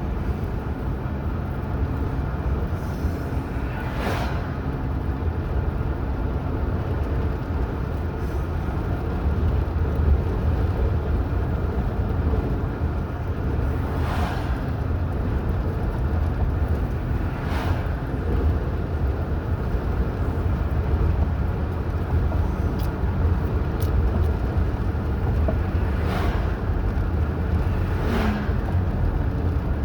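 A car driving on a highway: steady low rumble of engine and tyres on the road, with several brief noisy swells over it.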